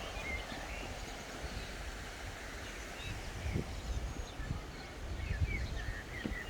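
Birds chirping in short, scattered calls over a low wind rumble on the microphone.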